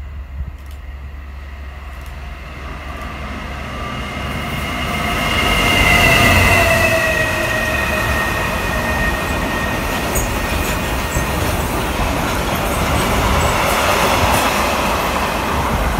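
A Class 66 diesel freight locomotive passes at speed hauling a long freight train, growing louder to a peak about six seconds in, with high tones falling in pitch as it goes by. Then the steady rumble of wagons rolling past, with scattered wheel clicks.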